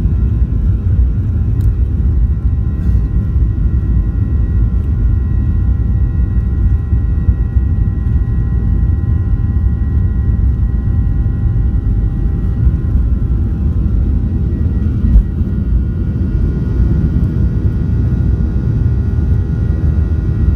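Cabin noise of a Boeing 737-900ER with its CFM56-7B turbofans running: a heavy, steady low rumble with several steady whining engine tones over it. There is a single brief knock about fifteen seconds in.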